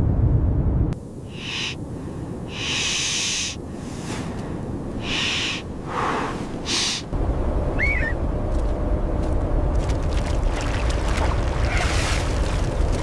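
Blizzard wind: a low rumbling roar that drops away about a second in and comes back about seven seconds in, with short hissing gusts in between. Short hoot- and chirp-like animal calls sound over it, one near the middle and one about eight seconds in.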